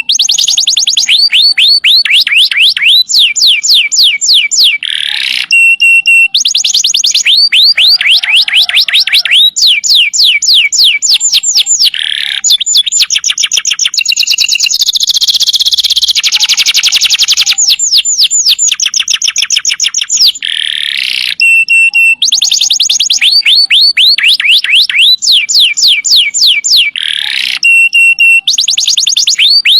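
Domestic canary singing continuously and vigorously in long, rapid trills. Each trill is a fast run of repeated high notes, switching to a new trill every second or two with hardly a pause.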